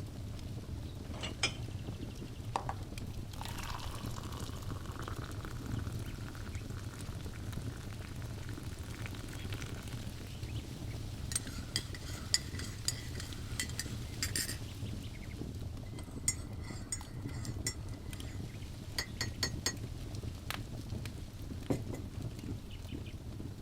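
Wood fire in a fireplace crackling over a steady low rumble, with scattered sharp pops and two runs of rapid snapping in the middle.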